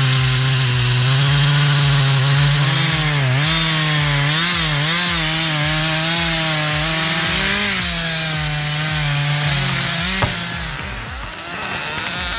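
Chainsaw running under load as it cuts through wood, its engine note wavering and dipping as the bar bites. The saw's sound falls away about ten seconds in.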